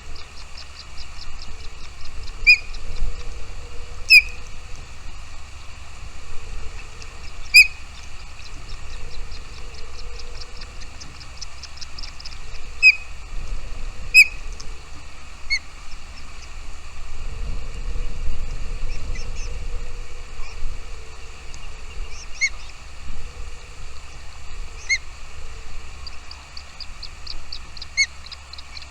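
Small birds chirping: quick runs of thin, high notes, several louder sharp chirps standing out, over a steady background hiss. A low rumble swells near the middle.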